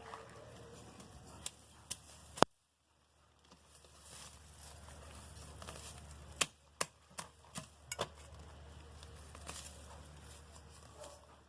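Scattered sharp knocks and taps over a faint low hum. The loudest is a single click about two and a half seconds in, followed by a brief silence, and a run of quicker knocks comes past the middle.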